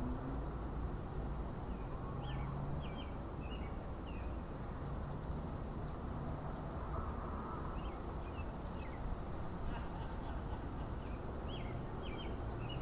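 Wind blowing in a steady low rush ahead of a thunderstorm, with birds chirping short repeated calls throughout.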